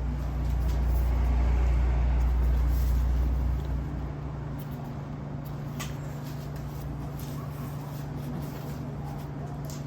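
A steady low mechanical hum with a heavy deep rumble over it for the first three or four seconds, then a few light clicks.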